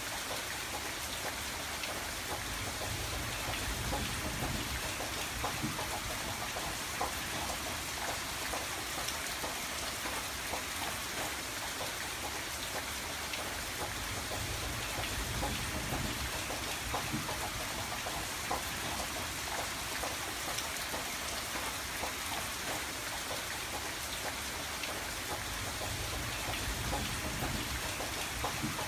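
Steady rain falling on a window, a continuous hiss with many small drop taps, and a soft low rumble that swells now and then.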